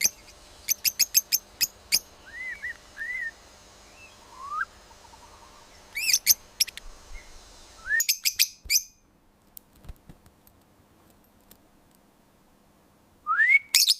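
Lovebirds chirping: quick runs of sharp, high chirps with a few short upward whistles, then a quiet stretch, and rising whistled notes near the end.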